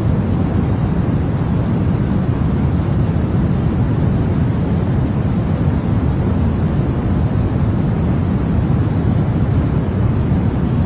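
Continuous white-noise sleep sound: an even, unbroken rushing noise, deepest and strongest in the low end, with no change in pitch or level.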